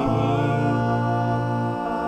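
Multi-tracked a cappella voices holding a steady wordless chord between sung lines, with the chord shifting near the end.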